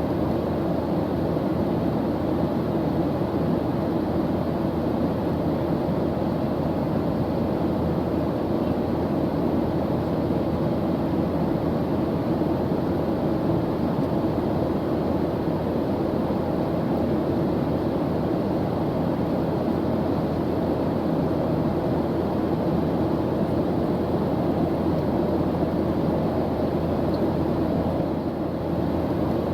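Airplane engine running steadily: an even, unchanging drone of noise, strongest in the low and middle range.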